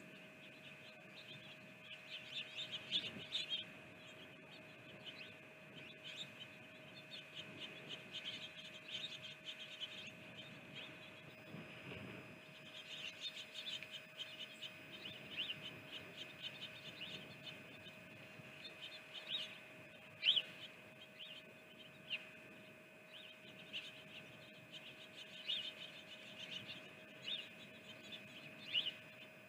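Small birds chirping outdoors in many quick, high chirps, with a few sharper chirps standing out, over a steady faint electrical hum.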